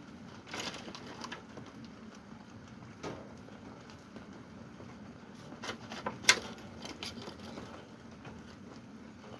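Steady rain with scattered drops tapping and ticking, one sharper tap about six seconds in.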